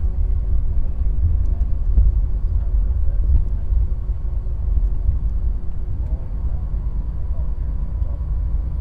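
Steady low rumble inside a jet airliner's cabin as the plane rolls on the ground after landing, with a faint steady hum and a few light ticks over it.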